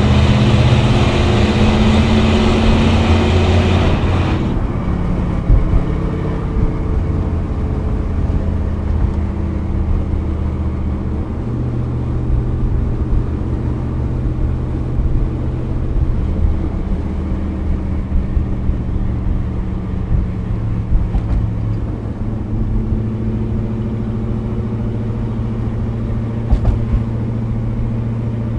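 1987 Pontiac Firebird Trans Am's 5.7-litre TPI V8 heard from inside the cabin while driving: louder and brighter for the first four seconds or so in a road tunnel, then a steady cruising drone on the open road, with the engine note shifting slightly a couple of times.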